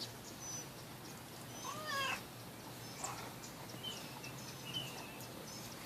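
A domestic cat meows once, about two seconds in, over faint bird chirps.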